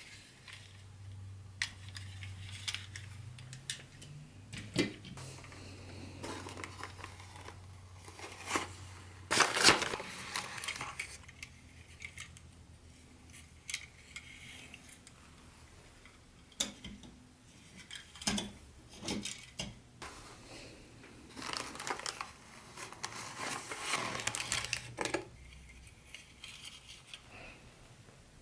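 Hands handling Tyco HO-scale model train pieces and their packaging: irregular clicks, taps, light clinks and rustles, loudest about nine to ten seconds in and again around twenty-two to twenty-five seconds. A low steady hum runs under the first nine seconds or so and then stops.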